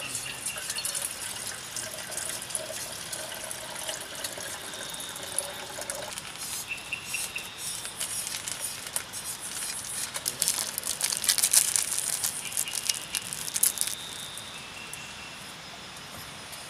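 Water pouring from a plastic jug into a steel cooking pot, stopping about six seconds in. After that comes a run of sharp clicks and rustles as something is handled over the pot, loudest a few seconds later.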